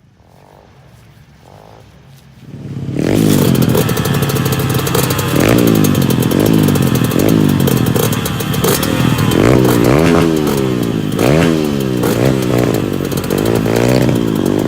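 A dirt bike engine, loud and close, revving up and dropping back over and over as the bike is ridden hard, coming in about three seconds in after a quieter stretch.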